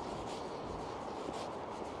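Steady road-traffic noise, with faint footsteps on pavement.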